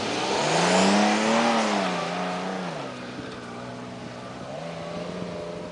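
Stock Toyota 4Runner's engine revving off-road: the revs climb, ease back, then pick up again near the end and hold steady.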